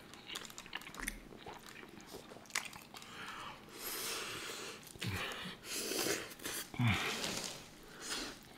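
Close-miked chewing and wet mouth sounds of people eating cheesy tacos, with lip smacks and finger-licking. There are two longer hissing stretches, a few seconds in and again near the end.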